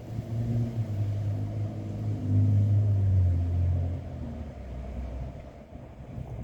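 Wind gusting, a low rumble that swells and eases, strongest in the middle and falling away after about four seconds.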